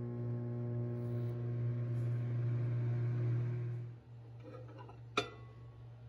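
Microwave oven running with a steady low hum, which cuts off about four seconds in. About a second later comes a single sharp click as the door is opened.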